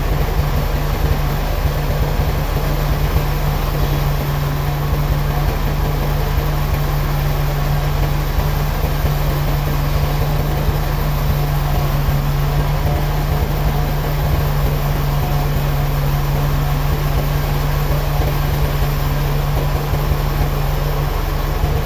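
Sawmill machinery running steadily: a continuous mechanical drone with a strong low hum.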